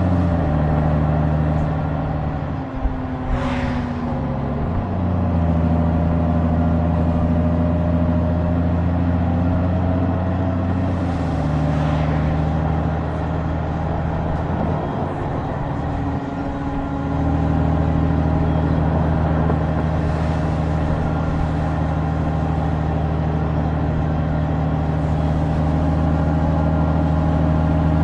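2023 Honda Goldwing DCT's flat-six engine running under way. Its note steps down and back up several times as speed changes.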